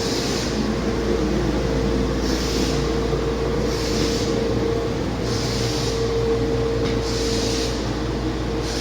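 Paccar MX13 inline-six diesel truck engine running steadily on a test run, with a steady low rumble and a hiss that swells and fades every second or two. The engine runs smoothly, in good condition.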